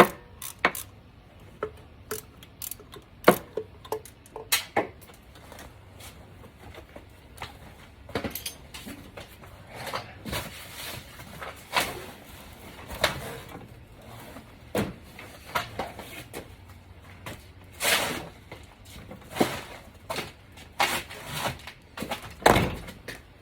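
Hand tools working in an engine bay: scattered metallic clicks, knocks and clanks at irregular intervals, with a few longer scraping spells.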